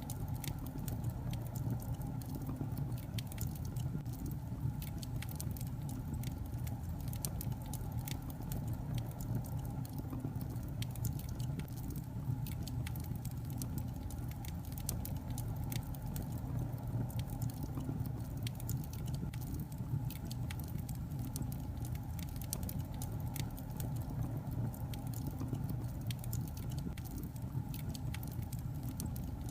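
Wood logs burning in a fireplace: a steady low rumble of flames with frequent irregular crackles and pops.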